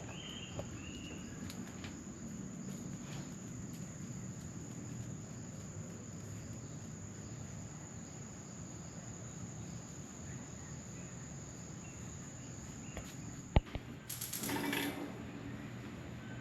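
An insect trilling on one steady, high-pitched note over a low background hiss; it stops about three seconds before the end. A sharp click and a short burst of rustling noise follow.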